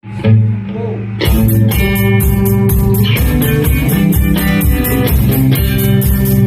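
Math rock band music: a guitar plays alone for about a second, then the full band comes in loud with a steady, busy beat under interlocking guitar lines.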